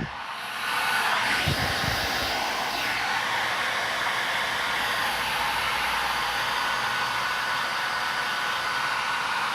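Handheld hair dryer blowing steadily while drying wet hair: an even rush of air with a faint steady whine, building up to full strength within the first second.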